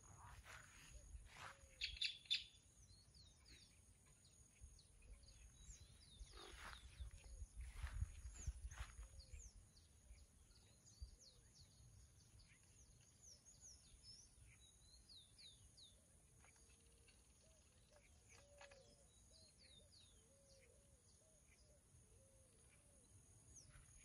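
Faint birdsong: scattered short, high chirps throughout, with a louder burst of chirping about two seconds in, over a low rumble.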